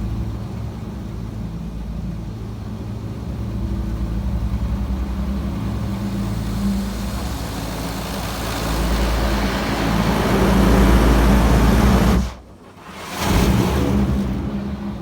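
High-pressure water jets from an automatic car wash's turbo nozzles spraying the car, heard from inside the cabin over a steady low hum. The spray grows louder toward the middle, cuts out sharply for about a second near the end, then returns.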